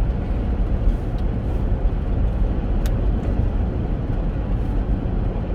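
Steady road and engine noise heard inside the cabin of a Chevrolet Captiva on the move, with one brief click about three seconds in.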